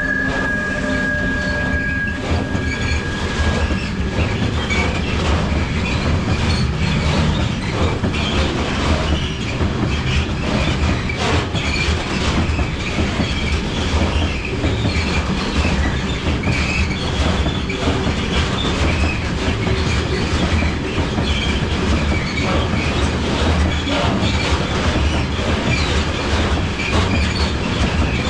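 Freight train rolling past, its wagon wheels clattering over rail joints in a steady loud rumble. A high wheel squeal fades out in the first few seconds.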